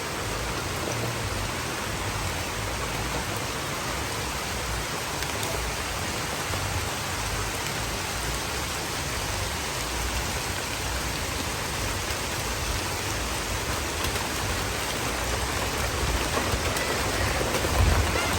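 Steady rain falling, a constant hiss, with a low uneven rumble beneath it that grows louder near the end.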